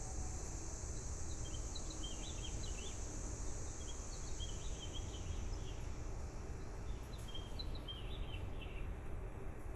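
Small birds chirping: short, high chirps in quick clusters throughout, over a steady low rumble and hiss.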